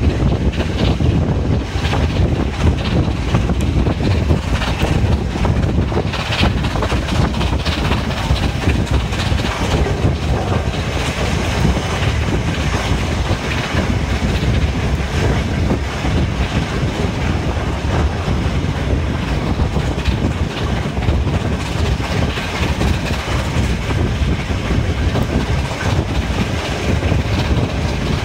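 Steam-hauled passenger train running at speed, heard from an open carriage window: a steady rumble of wheels on the rails with clickety-clack over the rail joints.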